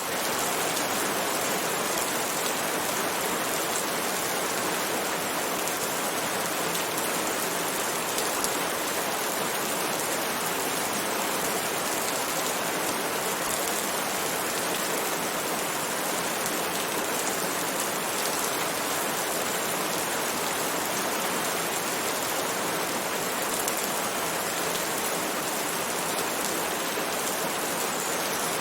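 Steady rain falling, an even hiss with scattered fine drop patter.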